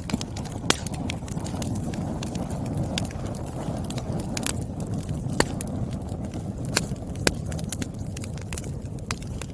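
Wood fire crackling: irregular sharp pops and snaps of burning firewood over a steady low rumble of flame.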